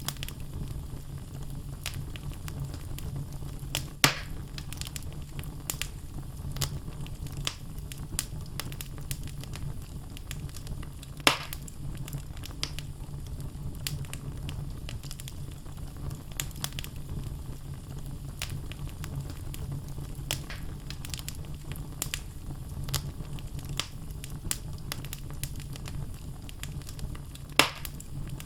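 Wood fire burning in a fireplace: logs crackling with scattered sharp clicks over a steady low rumble of flame, and three louder pops spread through it.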